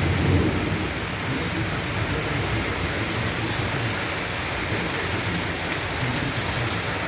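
Heavy rain pouring steadily in a thunderstorm, with the low rumble of thunder dying away in the first moments.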